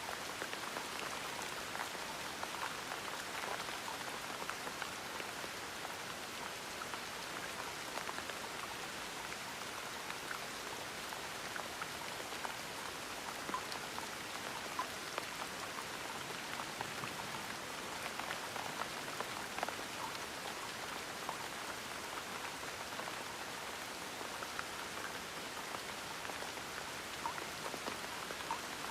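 Steady gentle rain, with many single drops pattering on a surface.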